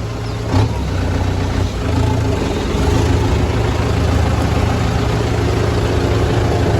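A vehicle engine running steadily under a constant noisy hiss.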